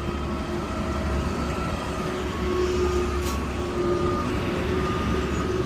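Garbage truck running: a steady low hum with faint whining tones that come and go.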